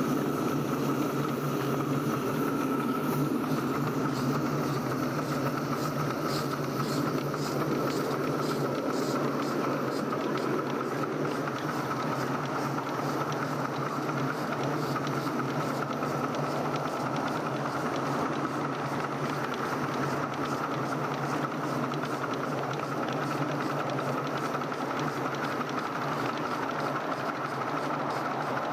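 7¼-inch gauge miniature railway train running steadily along the track.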